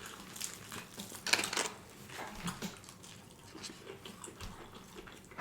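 Close-miked eating sounds: chewing with scattered wet mouth clicks and smacks, a little louder about a second in.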